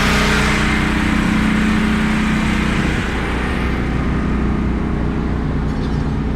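A car engine running close by with a steady hum, easing off about three seconds in.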